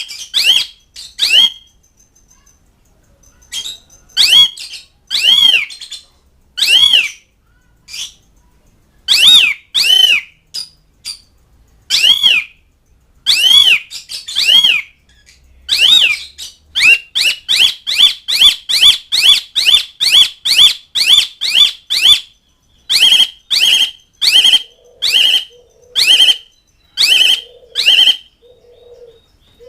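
Asian pied starling (jalak suren) giving loud, harsh calls, each note rising and falling in pitch; scattered at first, then a fast run of about two notes a second in the second half. It is the bird's call to companions and rivals.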